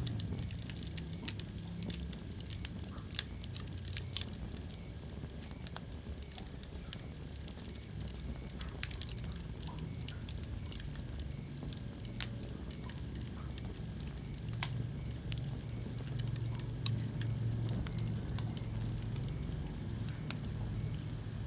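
Wood fire burning in a fireplace: steady crackling with frequent sharp pops, a few of them louder, over a low, even rumble of flame.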